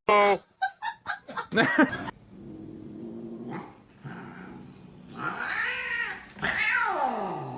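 A cat meowing and yowling: a loud call at the start and a quick run of short meows, then longer drawn-out yowls, the last one falling in pitch near the end.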